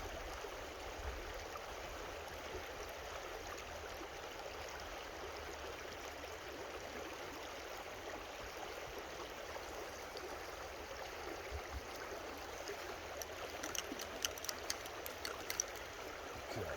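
A creek running, a steady even rush of flowing water. Near the end comes a quick run of faint clicks or taps.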